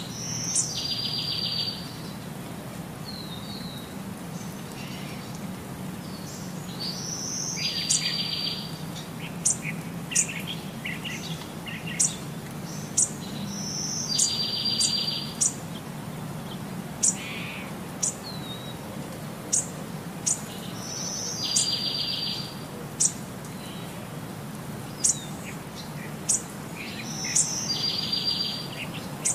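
Birds chirping, with sharp high chirps scattered throughout and the same buzzy trill returning about every seven seconds, over a steady low hum.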